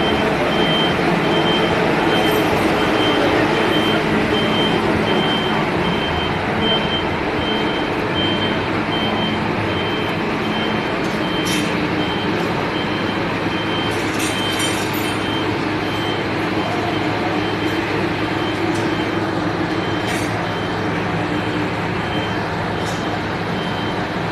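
Scania Irizar i8 coach's diesel engine running steadily, while a reversing alarm beeps over and over at a high pitch. A few brief clicks come in the middle.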